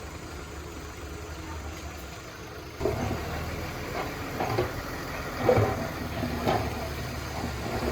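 Diesel engine of heavy earthmoving machinery running steadily. It grows louder about three seconds in, with a few irregular louder clunks over it.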